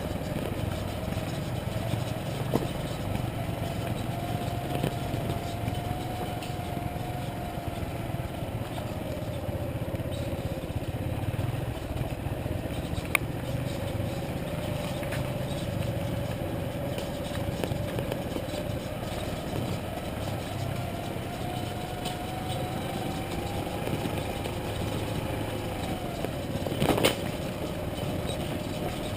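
Motorcycle engine running while riding, its pitch slowly rising and falling as the engine speed changes. A few sharp knocks break in, the loudest a little before the end.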